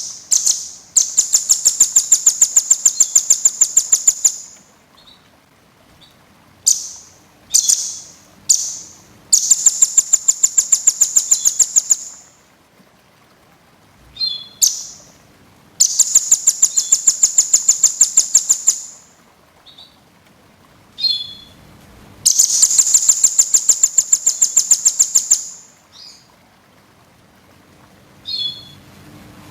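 A small songbird singing high-pitched, fast rattling trills: four trills of about three seconds each, with short sharp chirps between them.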